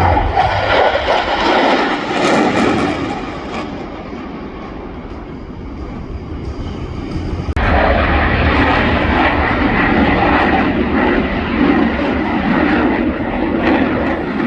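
Jet aircraft engine noise from a display pass: loud at first, easing off after a few seconds, then suddenly loud again about seven and a half seconds in.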